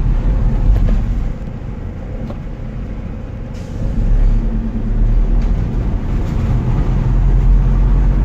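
Road traffic: motor vehicles running past with a low rumble that eases off about a second in and swells again near the four-second mark.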